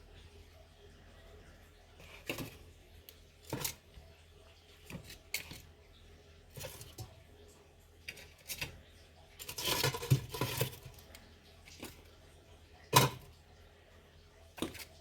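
Kitchenware being handled: a dozen or so separate clinks and knocks at irregular intervals, with a busier stretch of clattering around ten seconds in and the loudest knock about thirteen seconds in.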